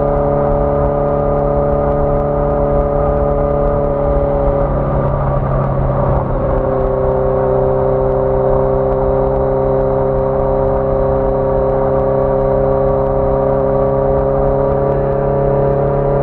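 1981 Yamaha XJ650 Maxim's air-cooled inline-four engine running under way, with wind and road rumble beneath it. The engine note changes about five seconds in, then holds and rises slowly as the bike gathers speed.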